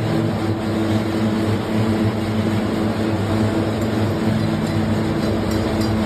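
Lathe machine running, a steady mechanical hum with a constant low drone.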